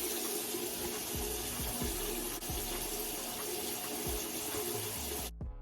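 Water running steadily from a tap into a sink, cut off suddenly near the end as background music begins.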